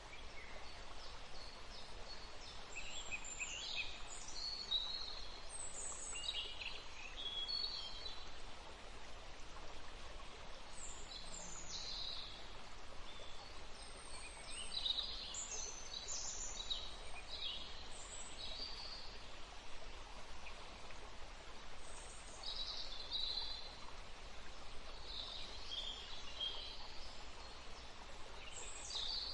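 Birds chirping, with short high calls coming again and again over a steady background hiss.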